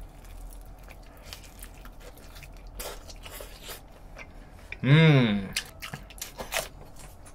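Close chewing of crispy fried chicken, with scattered sharp crunches. About five seconds in, a man gives a short vocal hum that rises then falls in pitch; it is the loudest sound.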